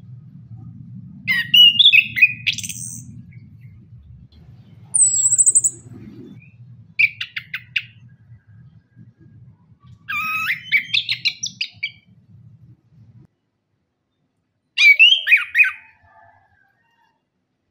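Chestnut-capped thrush (anis kembang) singing in separate short phrases of quick, varied whistled notes, five phrases with pauses between them, one of them a high falling whistle. A low steady rumble lies underneath and stops about two-thirds of the way through.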